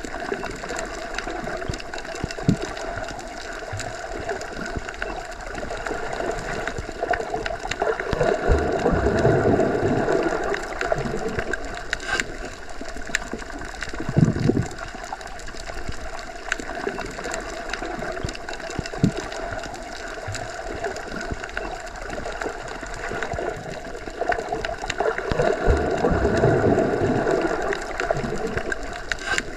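Underwater ambience as heard while submerged: a muffled, steady watery hum that swells louder twice, with a few soft low thuds.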